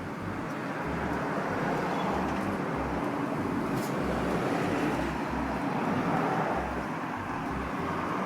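Steady outdoor rushing noise, with wind buffeting the microphone in low, uneven rumbles.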